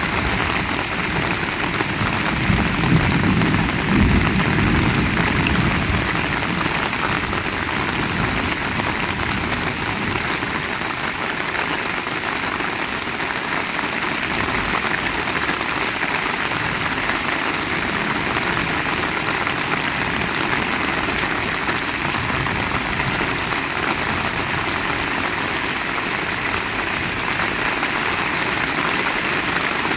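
Heavy rain falling steadily, a dense even hiss, with a brief low swell in the sound about three to five seconds in.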